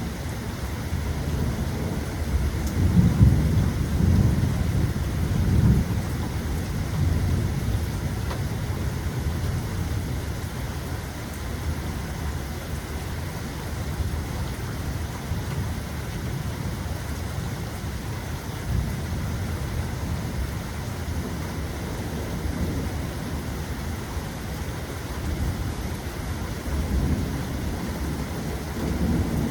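Steady rain with rolling thunder: a low rumble swells a couple of seconds in, peaks around four to six seconds, then eases back under the rain, and rises again near the end.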